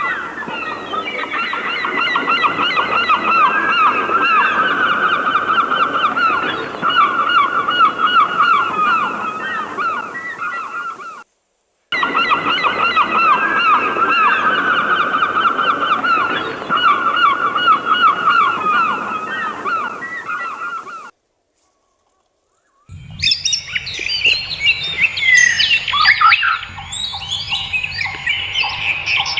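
A flock of birds calling all at once in a dense, rapid chorus, cut off abruptly twice by dead silence. After the second break, a different bird sound of higher chirps and trills starts.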